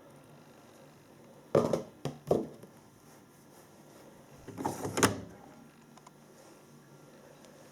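Handling of a washing machine's front: three short, dull knocks in quick succession about one and a half seconds in, then a longer clattering knock about five seconds in, like a door or dispenser drawer being pushed shut.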